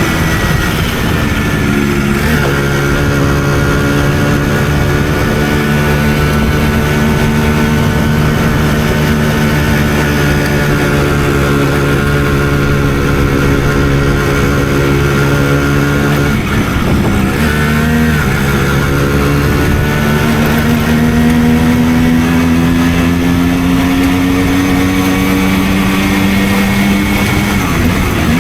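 Simson moped's small single-cylinder two-stroke engine running under way, holding a steady pitch with gear changes about two seconds in and again about two-thirds through, then pulling with slowly rising revs near the end.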